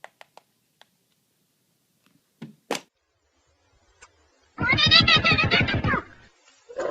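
A cat's long, loud meow lasting about a second and a half, its pitch wavering, preceded by a few faint clicks and a short knock.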